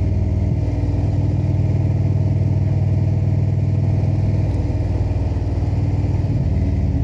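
Indian motorcycle's V-twin engine running steadily while riding, with small shifts in engine pitch about half a second in and again near the end.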